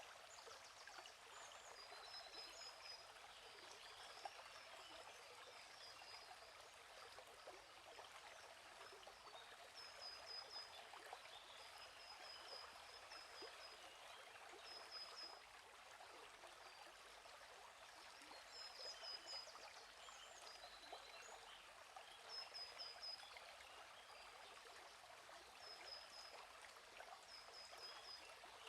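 Faint, steady babbling of a gently flowing stream, with a small bird giving short, high chirps every few seconds.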